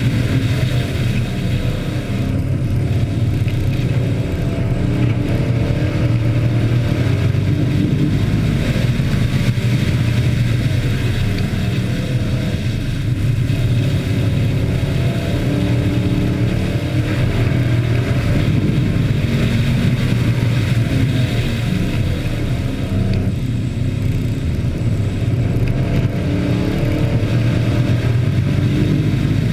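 Engines of a field of hobby-class racing trucks running hard during a heat race. It is a steady loud drone, with several engine notes overlapping and rising and falling as the trucks lap.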